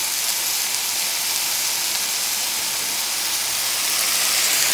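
Zucchini, garlic, mushrooms, bell peppers and onions sautéing in a skillet, a steady sizzle.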